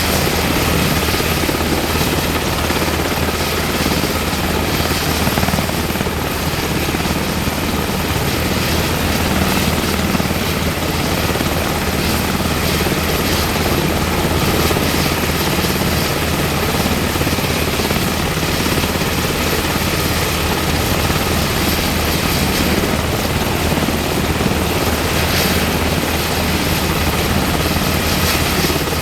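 UH-60M Black Hawk helicopter running steadily, its twin turbine engines and rotors giving a constant low throb under a thin high whine that holds at an even level throughout.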